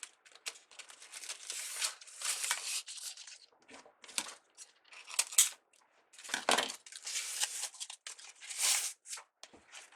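Irregular bursts of crinkling and rustling from craft ribbon and deco mesh being handled and worked by hand.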